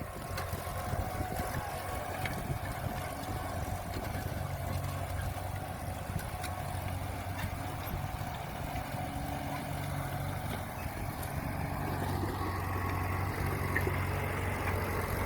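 Engine of a 1947 custom tractor idling with a steady low hum, growing a little louder over the last few seconds.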